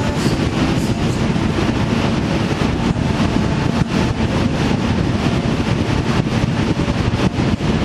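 Steady road noise from a vehicle under way, with wind buffeting the microphone.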